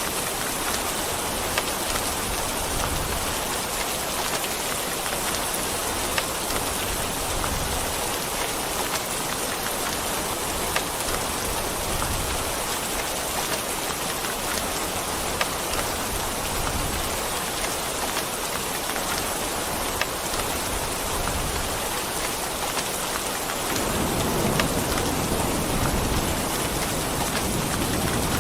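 Steady rain falling on a surface, with a few sharper drop hits now and then. A low thunder rumble builds up near the end.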